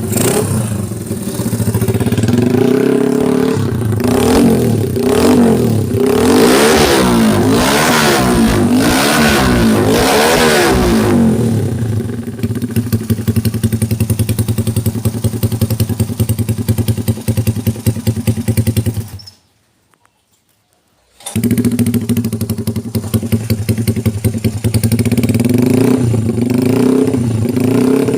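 Honda Supra's single-cylinder four-stroke engine, bored up to 130cc and run through an open exhaust, revved in repeated blips for about ten seconds, then idling with a rapid uneven beat. The sound drops out for about two seconds past the middle, then the idle resumes and the revving starts again near the end.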